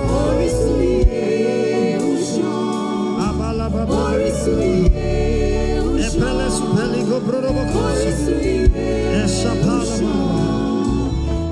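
Gospel worship music: singing over sustained instrumental chords and bass, with a single sharp drum hit about every four seconds.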